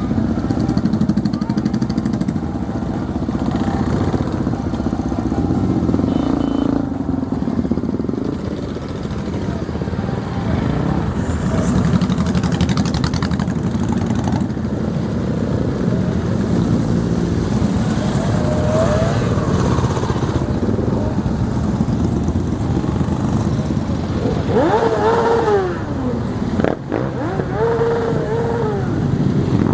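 Many motorcycle engines running together and revving, with voices in the background. Near the end, a few pitches rise and fall.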